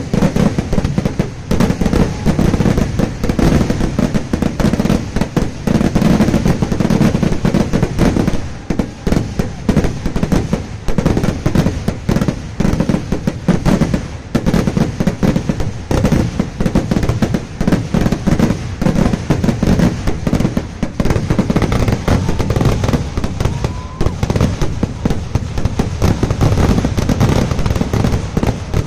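Festival fireworks going off in a continuous rapid barrage, many loud bangs and cracks overlapping with hardly a gap, briefly thinning a little about eight to nine seconds in.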